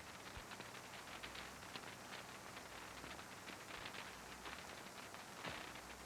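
Faint hiss and crackle of an early sound-film soundtrack, with fine scattered clicks and no distinct sound event.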